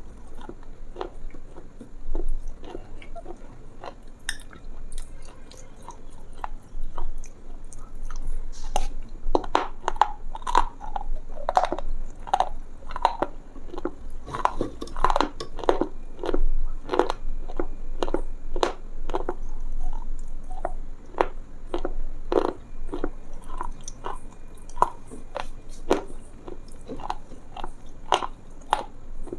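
Close-miked chewing and biting of crunchy food: a steady run of crisp crunches and crackles, densest through the middle.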